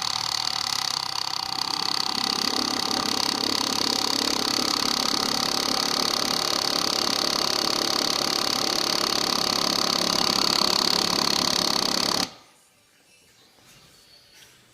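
Electric fuel pump running continuously with a steady high-pitched whine, not shutting off because it fails to build pressure: a bad fuel pump. It cuts off suddenly about twelve seconds in.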